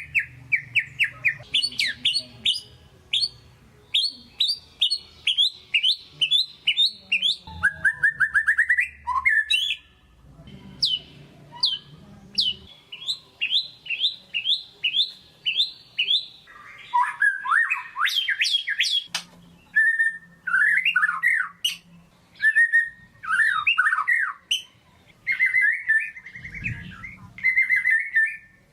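White-rumped shama (murai batu) singing continuously and vigorously. Its varied phrases are fast runs of repeated sweeping notes and trills, broken by brief pauses.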